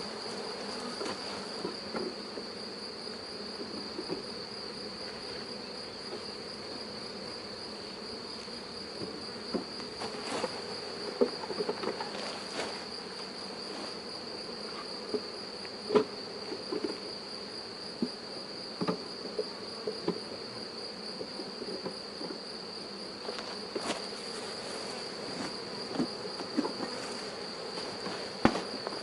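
A swarm of honeybees buzzing steadily around an open hive box, with a few sharp knocks of wooden hive parts and frames being handled. A steady high-pitched tone runs underneath.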